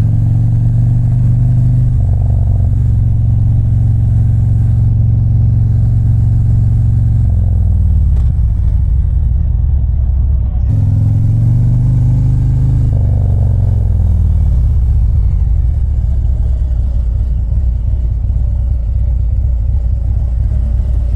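Motorcycle engine running under way, its note steady, then dropping about seven seconds in, rising briefly around eleven seconds and dropping again, then running low and steady as the bike slows.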